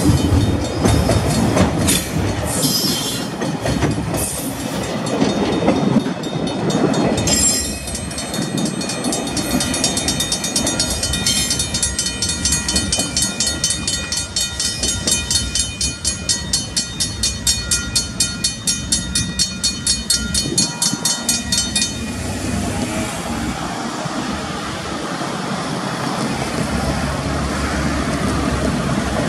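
Loaded log wagons of a freight train rolling past on the track, their wheels clicking over rail joints. In the middle a high ringing tone comes in with a regular beat of about two a second, then cuts off suddenly, leaving a steadier, quieter rumble.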